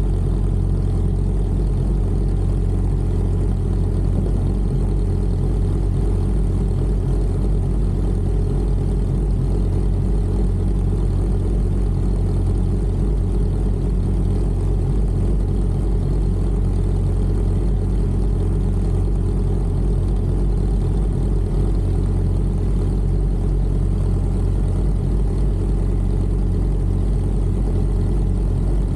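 Sportbike engine running at a steady, unchanging speed, deep and even with fast regular firing pulses and no revving.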